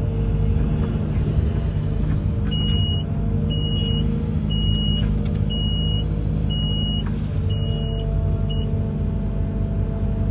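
Amphibious excavator's engine running with a steady low rumble. A high electronic beep repeats about once a second, seven times, through the middle of the stretch.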